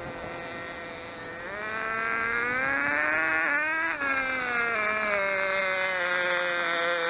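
Tiny engine of a 1/16-scale engine-powered RC car running with a high-pitched buzz; its revs climb for a couple of seconds about a second and a half in, then drop back and hold steady.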